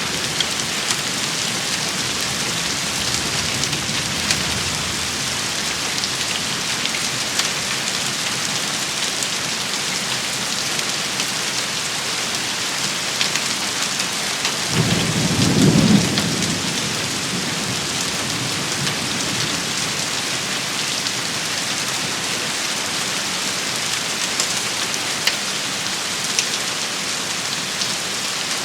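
Steady heavy rain shower pattering on hard surfaces, with scattered sharper drop ticks. About halfway through a brief low rumble rises and fades over a second or so.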